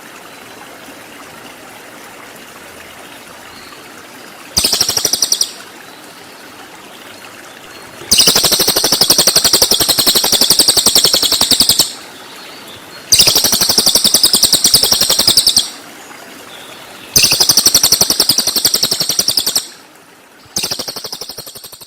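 Cililin birdsong in rapid-fire 'tembakan' bursts: very fast, high-pitched, buzzy trills, each held for a few seconds and repeated after short pauses, over a faint steady hiss.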